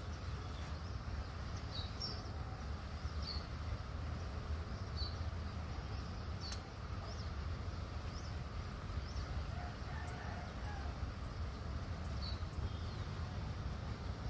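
Outdoor background noise with a steady low rumble, over which a small bird gives short high chirps every second or two.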